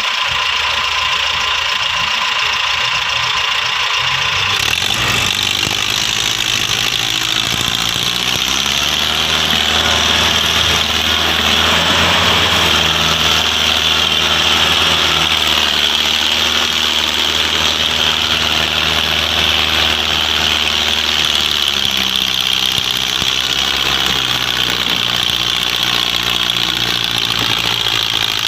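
Diesel engine running steadily under load; its speed rises about eight seconds in, holds, and drops back a little after twenty seconds.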